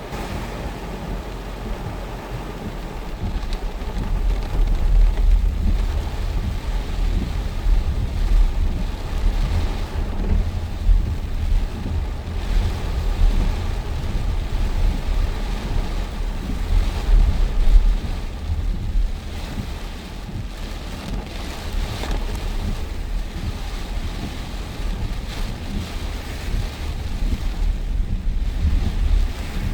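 Heavy rain hissing steadily while strong storm wind gusts across the microphone, a deep buffeting that swells and eases every few seconds.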